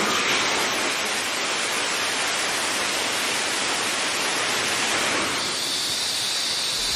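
Launcher E-2 liquid-fuel rocket engine firing on a test stand: a steady, even roar. About five and a half seconds in, a higher hiss joins it.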